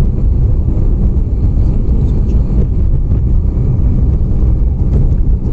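Steady low rumble of a car driving on a snowy road, heard from inside the closed cabin, with the hum of strong blizzard wind against the car.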